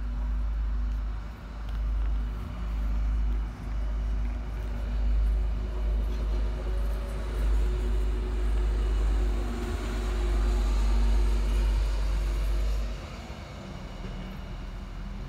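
Passenger train running along the railway: a steady hum with a rushing noise that swells and then eases. Under it is a heavy low rumble that drops away sharply about 13 seconds in.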